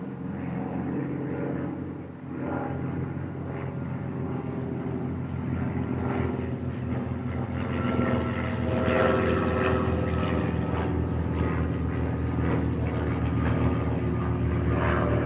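Propeller aircraft engine running steadily with a fast, even pulse, growing gradually louder.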